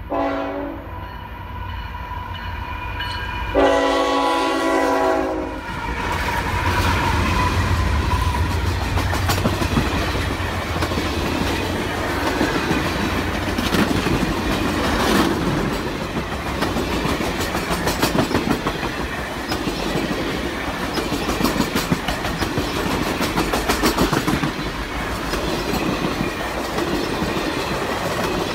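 Diesel locomotive horn sounds twice, the second blast loud and about two seconds long, as the circus train's locomotive passes. Then the Ringling Bros. circus train's long string of passenger cars rolls by with a steady rumble and wheels clicking over the rail joints.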